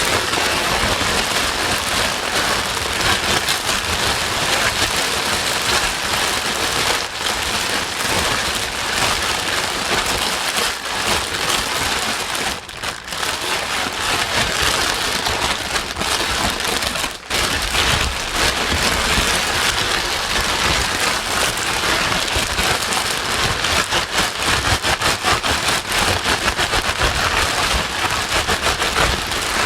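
Heavy rain noise played as a steady white-noise sleep sound, dense and loud with a fine crackle of drops. It briefly dips twice, about 13 and 17 seconds in.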